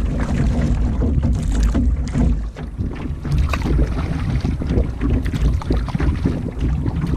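Wind buffeting the microphone in uneven gusts, over splashing and knocking from a canoe being paddled on a lake.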